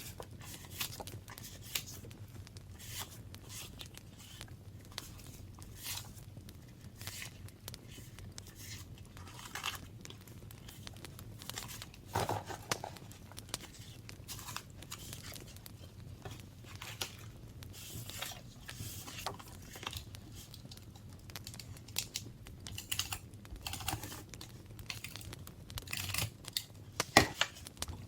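Paper being handled at close range: irregular rustling, crinkling and tearing, broken by small taps and clicks, with one sharper click about a second before the end.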